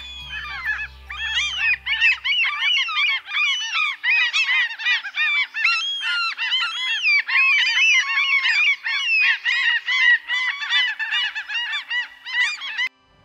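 A flock of gulls calling all at once, many short arched calls overlapping in a continuous chorus that cuts off suddenly just before the end.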